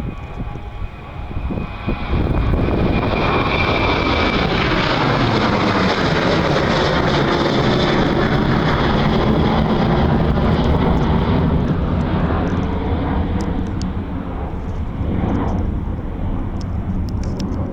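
Boeing 737-800 jet airliner with CFM56-7B engines taking off and passing by: a thin whine, then the jet roar rises sharply about two seconds in, holds loud for several seconds and slowly fades toward the end.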